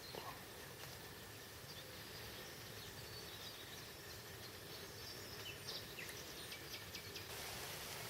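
Faint, scattered bird chirps over a steady outdoor hiss; about seven seconds in the hiss turns brighter and slightly louder.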